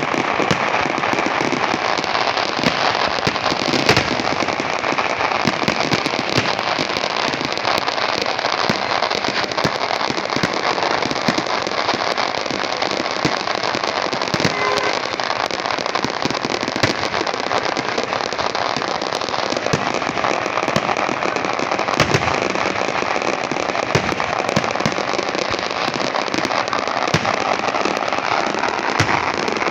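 Fireworks display: a dense, continuous crackle of firework effects with frequent sharp bangs from bursting shells.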